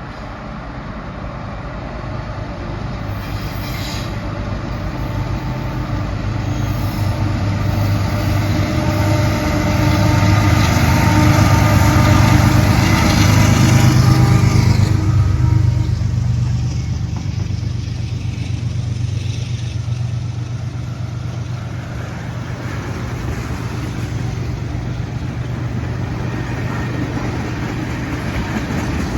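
Diesel freight locomotive running under power, growing louder as it approaches and dropping in pitch and level as it passes about halfway through. After it, a steady rumble of freight cars rolling by on the rails.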